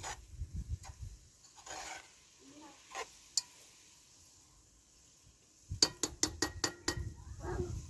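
Cooking utensils and dishes clinking and scraping, with a quick run of about eight sharp taps near the end.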